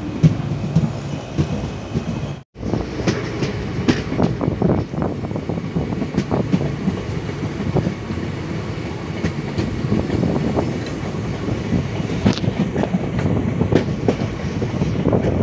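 Ananthapuri Express passenger train running at speed, its wheels clattering over the rail joints in a steady stream of clicks over a rumble. The sound cuts out briefly about two and a half seconds in.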